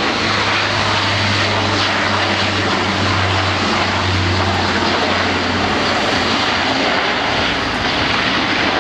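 Airbus A400M's four turboprop engines driving eight-bladed propellers in a flypast: a loud, steady rush of engine and propeller noise. A deep low drone beneath it stops a little over halfway through.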